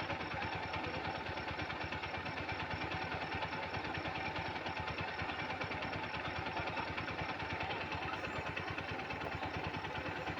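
Swaraj tractor's diesel engine idling with a steady, even firing beat.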